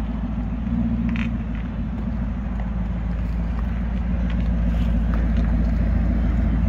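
2013 Maserati GranTurismo MC's 4.7-litre V8 idling steadily, warming up after a cold start.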